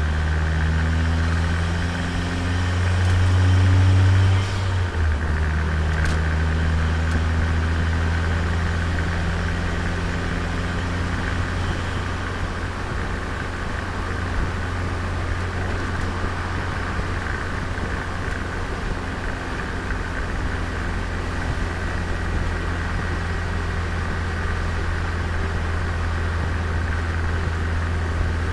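Turbocharged Nissan Micra's engine heard from on board while driving, its note climbing and getting louder for the first few seconds. It drops off suddenly about five seconds in, then runs at a steady, even cruise.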